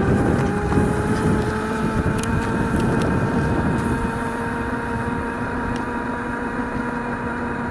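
Razor MX400 electric dirt bike's motor whining as it rides, the pitch climbing slightly over the first few seconds as it picks up speed and then holding steady, over a low rumble.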